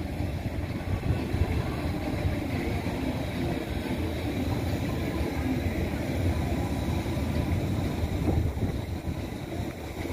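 R188 subway train running on the 7 line's track: a steady, even rumble of wheels on rail.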